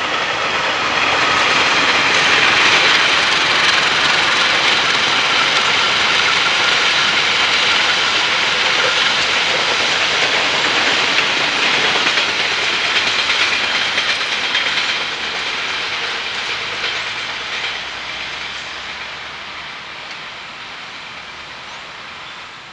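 A train passing by on the rails, loud for about fifteen seconds and then fading away as it moves off.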